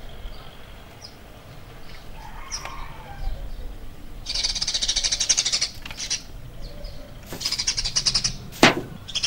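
A bird chattering in rapid, high-pitched trills, twice, each about a second long, followed near the end by a single sharp crack.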